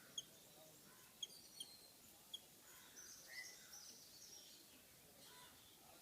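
Small birds calling: four short, sharp chirps in the first two and a half seconds, then a brief cluster of higher, scratchy chattering calls around the middle, over a low background hiss.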